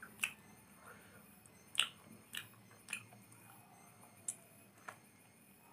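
Close-up eating sounds of a person chewing a mouthful of noodles taken by hand. There are about half a dozen sharp, wet mouth clicks and smacks, the loudest about two seconds in.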